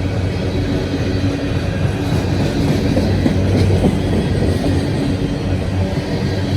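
Freight train rolling past close by, steel wheels rumbling and clattering on the rails in a steady, loud din.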